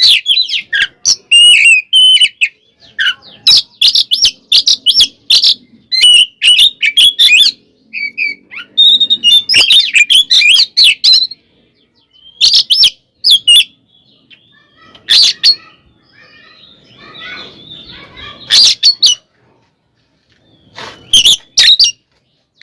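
Oriental magpie-robin (kacer) singing loudly in rapid bursts of varied sharp whistles, trills and chattering notes, broken by short pauses. The song is the bird's loud, aggressive fighting song. It is softer for a few seconds past the middle.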